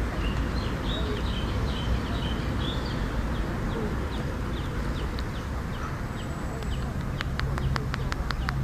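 Steady low outdoor rumble with small bird chirps early on, then a quick run of light, sharp clicks, about six a second, near the end.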